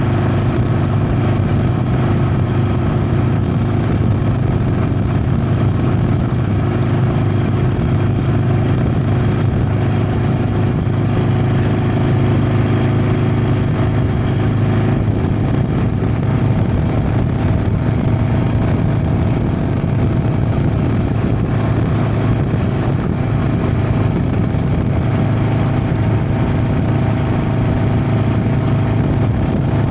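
Harley-Davidson Sportster's air-cooled V-twin running steadily while being ridden, its exhaust note shifting slightly about halfway through.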